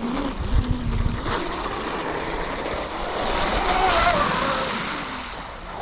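Brushless motor and propeller of a Pro Boat BlackJack 24 V2 RC catamaran whining as it speeds across the water, swelling to its loudest about four seconds in and then fading. Low rumbles hit the microphone in the first second.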